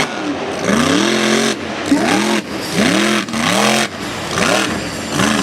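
Mega truck engine revved hard again and again, about six times, its pitch climbing and dropping back with each rev.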